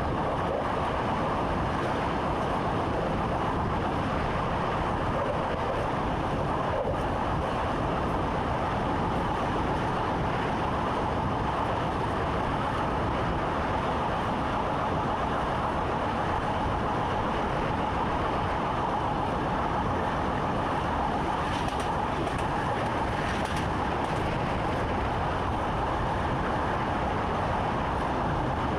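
Steady running noise of a train heard inside the driver's cab, with a couple of faint clicks about three-quarters of the way through.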